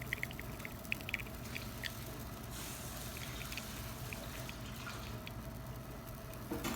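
Liquid dripping in small, irregular drops from a Zacconi lever espresso machine's group head during a pressure test, over a steady low hum.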